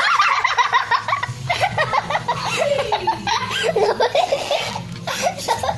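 Children laughing and giggling, high-pitched and near-continuous.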